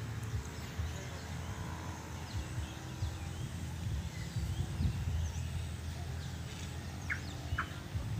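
Outdoor ambience of birds chirping, many short faint calls scattered through, over a steady low rumble. Two brief, clearer calls come near the end.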